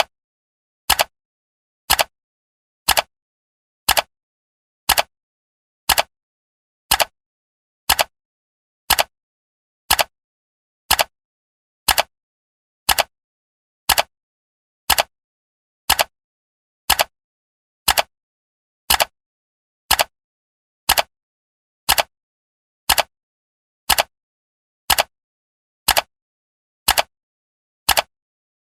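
Clock-style ticking sound of a countdown timer: one sharp tick each second, with silence between the ticks.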